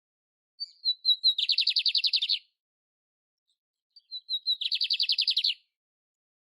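A canário-império (canary) singing two short song phrases. Each opens with a few thin, high notes and runs into a fast trill of about ten notes a second that lasts roughly a second.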